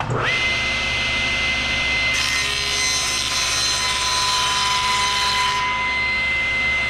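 Table saw with a 10-inch blade switched on, spinning up within a fraction of a second and then running with a steady high whine. A harsher, hissier stretch rises over it from about two seconds in to about five and a half seconds in.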